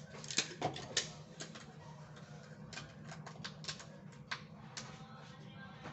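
Irregular sharp clicks and taps of kitchenware being handled while drinks are mixed, over a steady low hum.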